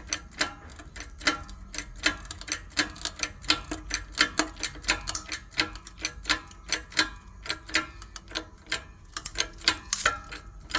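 Rapid, irregular sharp clicks and taps, several a second, from work on an engine crankshaft being pressed out with a wooden block as a buffer.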